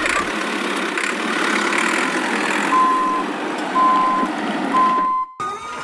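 A vehicle's reversing alarm beeps three times, about once a second, over a steady motor running. The sound cuts off abruptly near the end.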